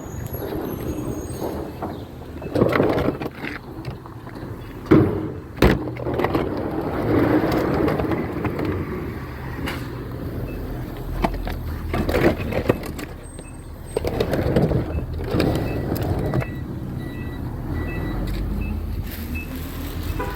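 Recycling truck running, its engine noise swelling and easing several times, with two sharp bangs about five seconds in.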